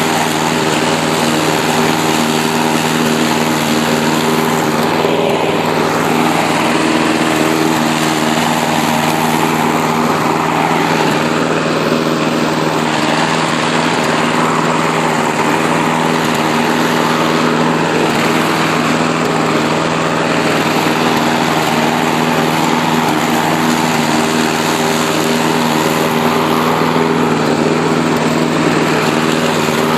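Lawn mower's small gasoline engine running steadily at a constant speed, without dying out, on tainted gas treated with PRI-G stabilizer. The owner takes the steady running as clear evidence that the treatment fixed the bad fuel.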